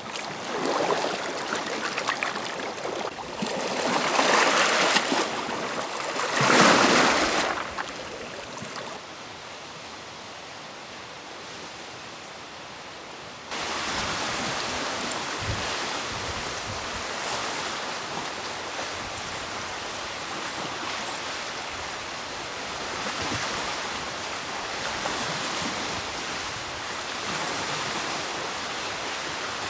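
Rushing water and wind noise with no distinct events. It surges in several swells over the first eight seconds, drops to a quieter, dull stretch, then switches abruptly, about 13 seconds in, to a steady rushing hiss.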